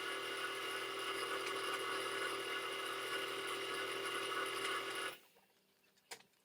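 A machine running with a steady whir, stopping suddenly about five seconds in, followed by a few faint clicks.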